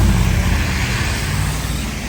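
A motor vehicle passing close on the street: a low engine rumble with tyre noise, slowly fading.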